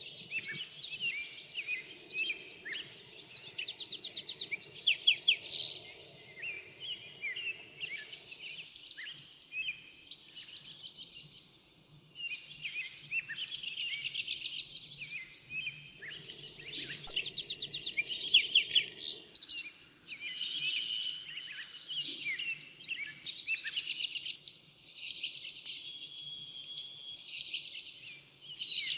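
Several songbirds singing and calling, phrase after phrase with rapid trills and a few held whistled notes, often overlapping.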